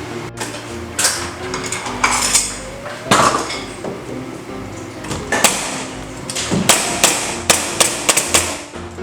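Nailing into timber ceiling framing: about ten sharp impacts, spaced a second or so apart at first and coming faster in the second half, over background music.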